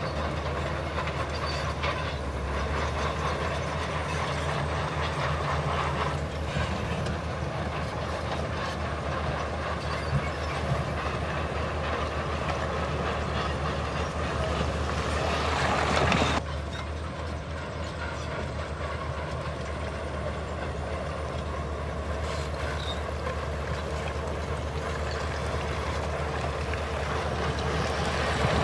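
Heavy diesel earthmoving machinery running steadily with metallic clanking and rattling. It builds to a louder peak about sixteen seconds in, then drops suddenly to a slightly quieter steady run.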